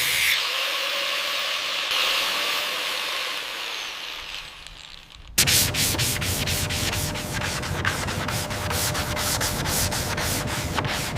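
A steady hiss that fades away, then an abrupt change about five seconds in to sanding by hand: rhythmic rubbing strokes, about three to four a second.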